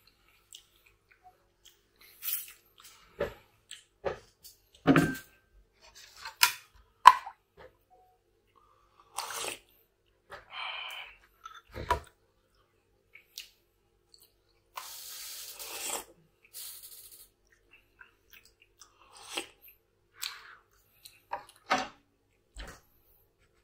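Close-miked eating sounds: chewing and smacking on braised oxtail and rice, heard as many short separate sounds with quiet between, plus a longer hiss about fifteen seconds in.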